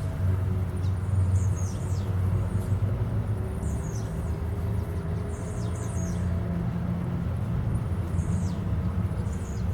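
Small seed-eating birds giving short, high, downward-sliding chirps every second or two, over a steady low rumble that is the loudest sound.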